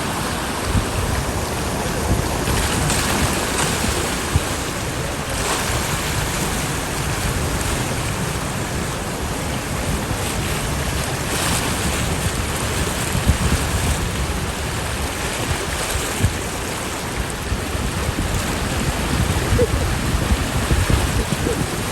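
Steady rush of water in a heavy rainstorm, with wind buffeting the microphone in low rumbles and thumps.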